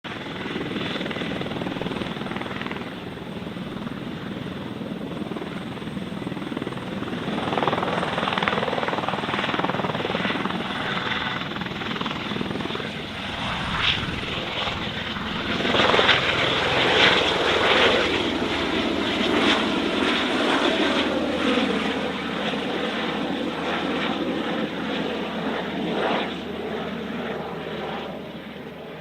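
Light aircraft engine running and passing close by, growing louder to a peak about 16 to 18 seconds in. Its pitch then drops as it goes past, and it fades.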